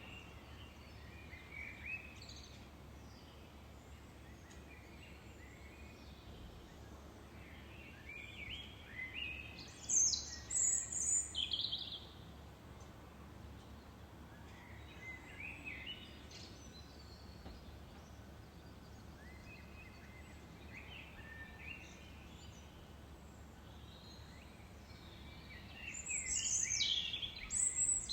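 Songbirds singing in scattered phrases of chirps and trills, the loudest about ten seconds in and near the end, over a faint steady low hum.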